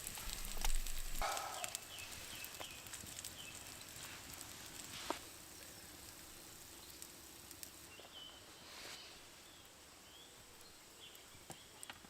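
Faint crackles and clicks of a campfire, with a light hiss from the pan of bacon being warmed over it. Small birds chirp with short repeated notes, mostly in the second half.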